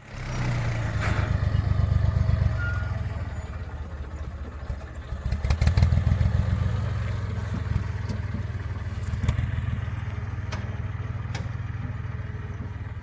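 An engine running with a low rumble that swells twice, with a few clattering knocks over it.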